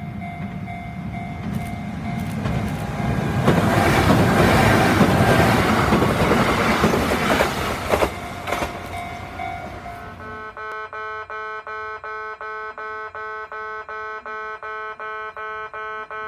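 Kintetsu's yellow 'Hakaru-kun' track-inspection car, coupled to a commuter car, passes close by with rail clacks. Its noise is loudest about halfway through and fades away. From about two-thirds in, a Japanese level-crossing warning alarm rings steadily, about twice a second.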